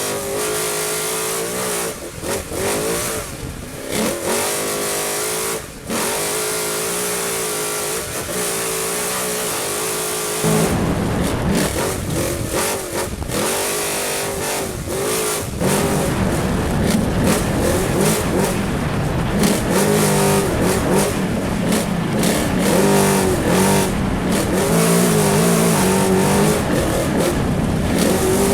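Trophy truck engine at full race pace, its revs repeatedly rising and falling as it accelerates, shifts and lifts, under wind and rough-terrain noise. It grows louder and heavier from about ten seconds in.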